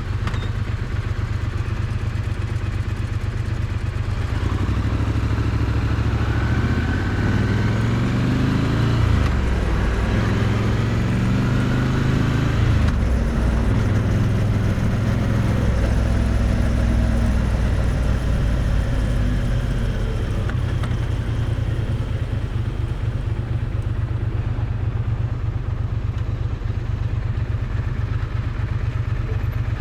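Triumph Bonneville T100's parallel-twin engine and exhaust, heard close to the exhaust. It runs at a steady low note, then rises and drops in pitch several times as the bike pulls away and changes gear, and settles back to a steady low note for the last stretch.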